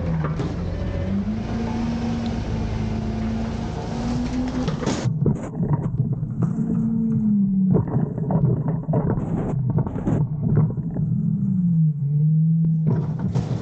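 Autocar garbage truck with a Heil Freedom half-pack body dumping bins: the diesel engine revs up and holds three times to drive the hydraulics. A steady hiss runs through the first five seconds, then comes a run of clanks and bangs of bins and metal.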